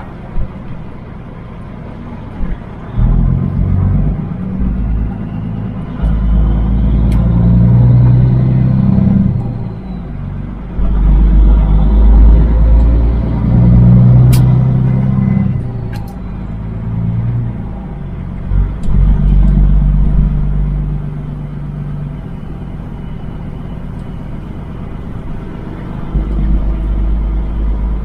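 Semi truck's Caterpillar diesel engine pulling under load in several loud surges, with drops between them.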